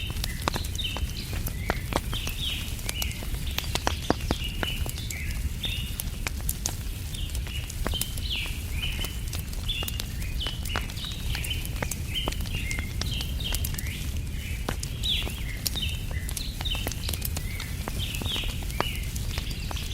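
Wood fire crackling with frequent sharp pops, over a steady chorus of small birds chirping and a low continuous rumble.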